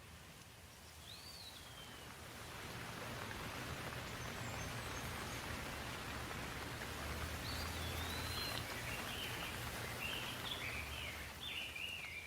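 Steady rainfall, a hiss of falling drops that swells about two seconds in and then holds. A bird gives one short whistled call about a second in and a run of quick chirps in the second half.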